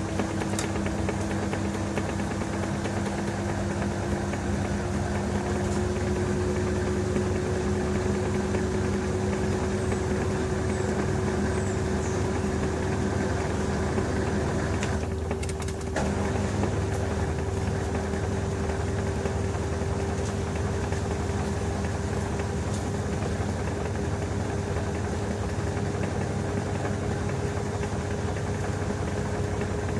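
LG TurboDrum WT-R852 top-loading washing machine running with a load of bedding: a steady motor hum with a whine that rises slowly in pitch, and a short break in the higher noise about halfway through.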